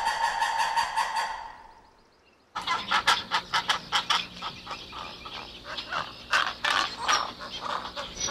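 Fowl calling: a fast, evenly pulsed call fades out in the first two seconds. After a brief gap, a busy run of many quick, irregular calls starts.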